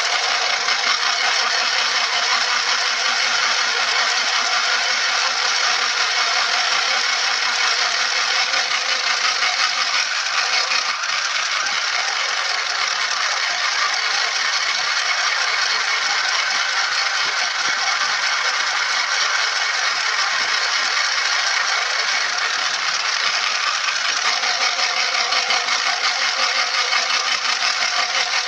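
Mini portable electric sewing machine running steadily, its small motor and needle mechanism going without a break.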